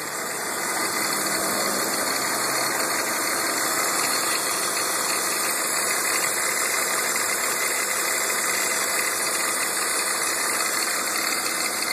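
Car engine idling in neutral with a steady running noise: the rough idle the owner is trying to track down.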